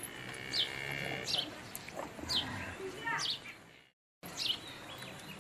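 A bird chirping repeatedly, short falling chirps about once a second, with a longer drawn-out call in the first second. The sound cuts out briefly a little before four seconds in.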